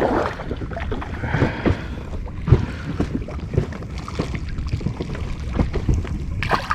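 Irregular knocks and thumps on an inflatable fishing boat, with water splashing and wind rumbling on the microphone, while a hooked Spanish mackerel is being grabbed for at the boatside.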